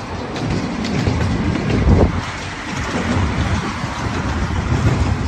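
Open passenger car of a small amusement-park train rolling along the track: a continuous, uneven low rumble with faint clicking from the wheels and rails.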